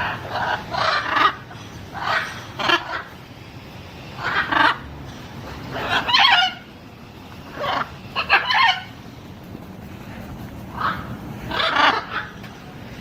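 Macaw giving a series of loud squawks, one every second or two, some in quick pairs.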